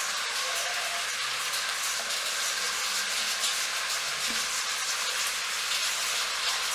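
Heavy rain falling on a metal roof: a dense, steady hiss.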